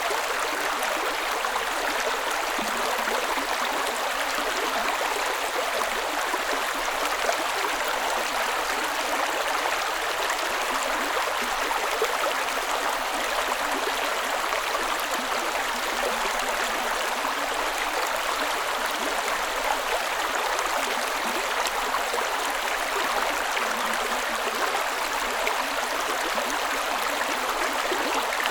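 A creek running steadily over rocks, a constant splashing, gurgling rush of water with no letup.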